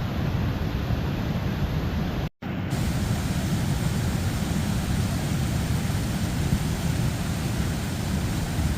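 Steady rushing of a waterfall, a dense even noise heaviest in the low range, broken by a split-second gap about two seconds in.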